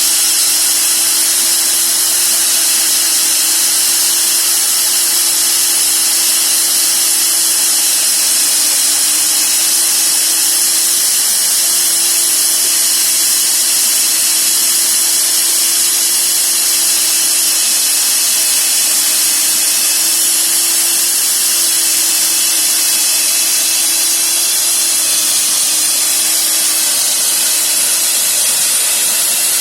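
Electric drill running steadily under load as it bores through material, a constant motor whine with a slight waver in pitch and a loud grinding hiss over it.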